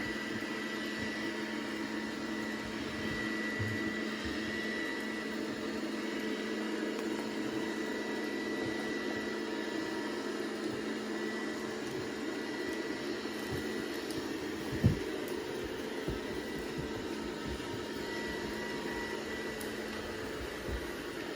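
Robot vacuum cleaner running with a steady hum and a thin high tone. A single sharp knock about fifteen seconds in.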